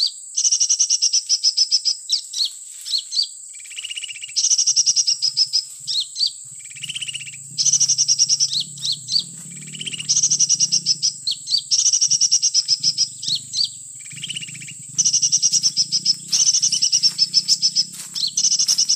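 Kolibri (sunbird) calls played from an MP3 lure recording: repeated bursts of fast, high trills and chirps, each a second or two long with short gaps between.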